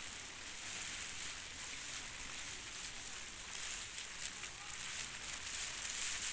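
Steady rain falling, an even hiss with scattered ticks of drops.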